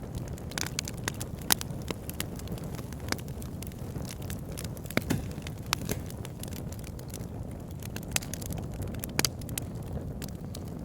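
Campfire burning, with a steady low rumble of the flames and irregular sharp crackles and pops from the wood, a few of them louder than the rest.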